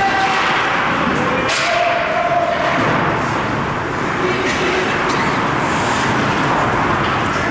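Steady din of ice hockey rink noise, with a sharp knock about one and a half seconds in.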